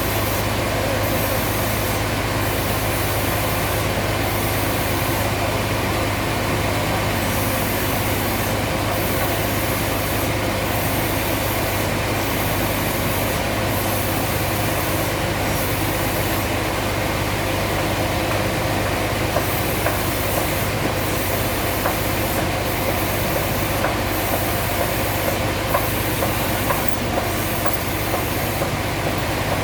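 Sawmill machinery running steadily: a loud constant hum with a hiss above it that drops out briefly over and over.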